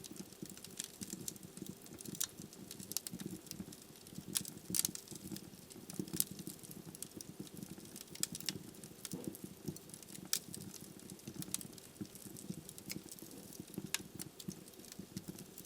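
Wood fire burning in a fireplace: a steady low rumble of the flames with irregular sharp crackles and pops from the burning logs, a few louder pops about five and six seconds in.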